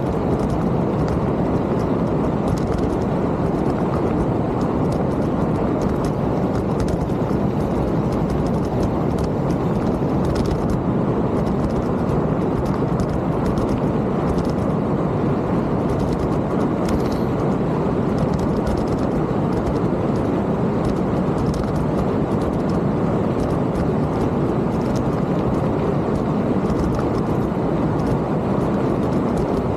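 Steady rushing noise of a mountain bike being ridden: wind over the microphone and tyres rolling on the trail, with faint scattered ticks and rattles.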